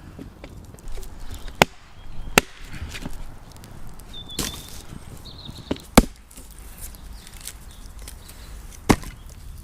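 Chopping on wood: four sharp strikes, spaced irregularly a second or more apart.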